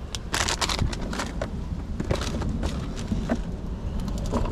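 Food frying in a pan on a hot plate: irregular crackling and popping, mixed with knocks from handling the pan and utensils.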